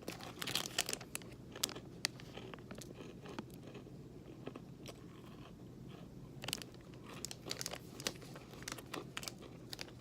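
Crunching and chewing of a dry, hard Nature Valley crunchy oats and dark chocolate granola bar. Clusters of crisp crackles come in the first second and again about six and a half and nine seconds in, with quieter chewing between.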